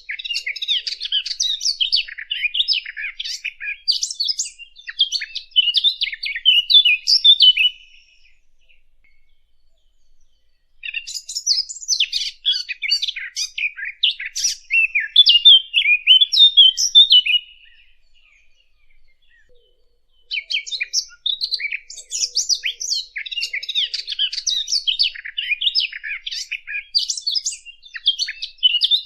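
Songbird singing long, fast chattering and warbling phrases in three bouts of about six to seven seconds each, separated by pauses of about three seconds.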